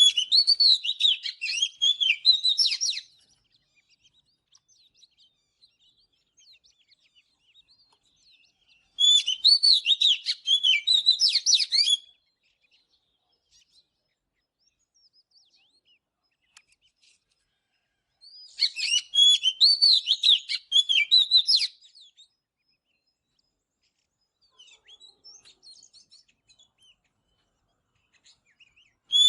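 Oriental magpie-robin singing three loud phrases of quick, varied whistles and chirps, each about three seconds long and spaced roughly nine seconds apart, with faint softer notes between.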